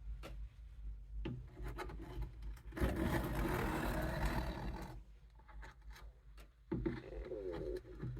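Steel knife blade being pushed along a coarse 200-grit sharpening stone under heavy pressure to thin out the edge, a scraping grind in separate strokes. The longest and loudest stroke lasts about two seconds, starting about three seconds in, and another begins near the end.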